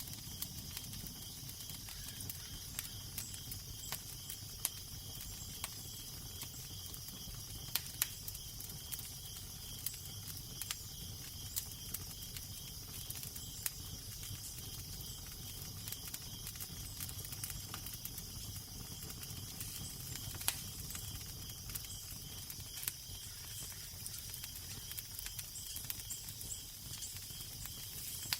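Fireplace fire crackling, with irregular sharp pops and snaps over a steady hiss and a low rumble underneath.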